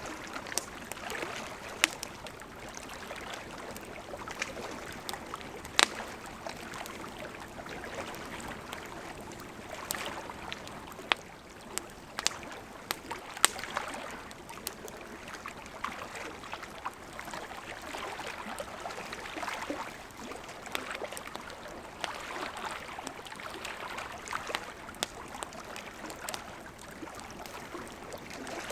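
Campfire crackling, with irregular sharp pops and snaps, over the steady rush of a gently flowing river.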